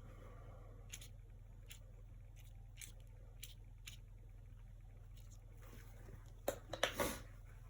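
Acrylic painting work: faint, scattered taps and soft brush-scraping sounds, then a cluster of louder sharp knocks about six and a half seconds in.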